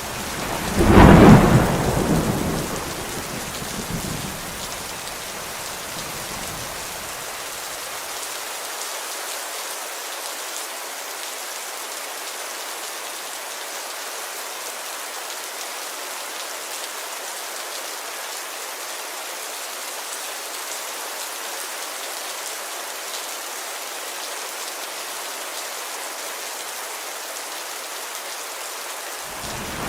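Steady heavy rain pattering on a window. About a second in, a loud clap of thunder rumbles and dies away over the next several seconds. Another thunderclap begins at the very end.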